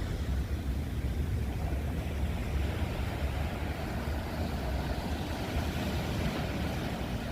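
Wind buffeting the microphone as a steady low rumble, over the wash of sea waves along a rocky shore.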